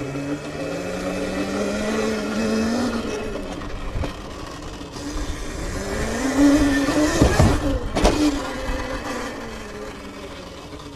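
Sur-Ron electric dirt bike's motor whining, rising in pitch as it accelerates, easing off, then rising again to a peak about seven seconds in before falling away. Two sharp thumps come near that peak.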